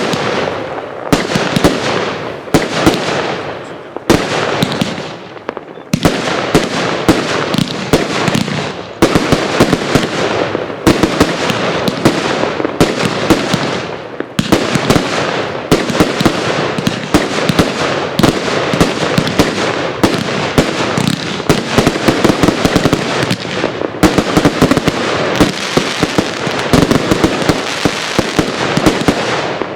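Consumer firework cakes firing in a dense, continuous barrage of rapid bangs and crackling, the closing finale of the display. The bangs ease briefly a few seconds in and again about halfway through, then pick up again.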